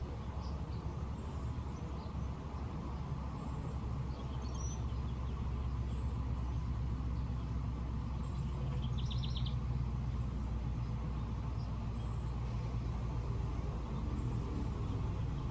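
Steady low mechanical hum, like an engine running nearby, throughout. Faint bird chirps come over it, with a quick run of several chirps about nine seconds in.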